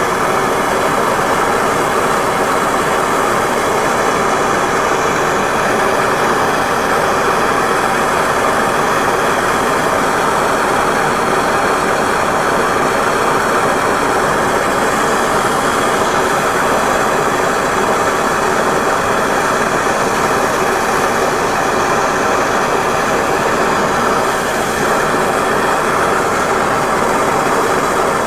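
Gas torch flame burning steadily without a break, heating the small end of a 350 Chevy connecting rod for a gudgeon-pin press fit.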